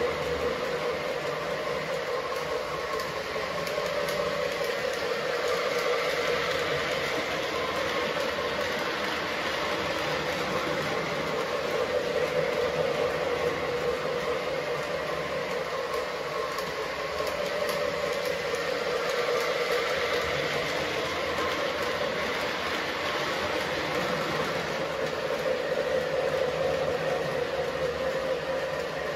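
Menards O gauge Union Pacific toy train running on steel track: a steady motor hum and wheel rumble that swells and eases every several seconds.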